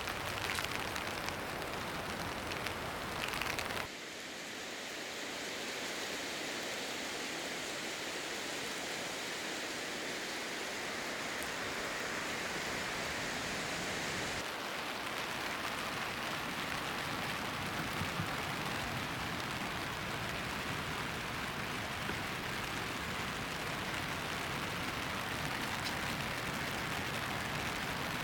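Heavy rain falling in a steady hiss; its sound changes abruptly about four seconds in and again about halfway through.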